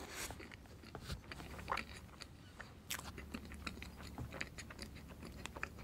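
Close-miked chewing of a mouthful of mille-crêpe cake. It comes as a run of many small, quick mouth clicks at a low level.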